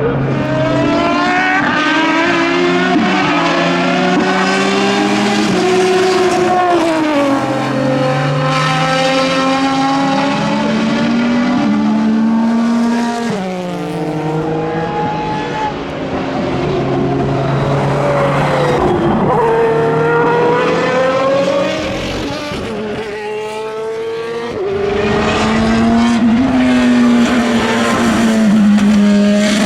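Several endurance racing cars, prototypes and GT cars, running hard on track, their engines revving up and dropping back through gear changes as one car after another goes past.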